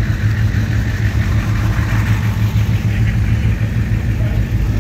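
A car engine idling steadily, a loud low-pitched hum with even harmonics that stays level throughout.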